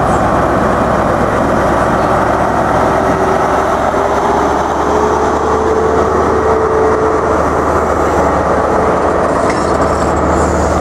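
InterCity 125 high-speed train passing slowly: the Class 43 power car's diesel engine drones steadily while the Mark 3 coaches roll by on the rails. A thin whine rises a little in pitch partway through.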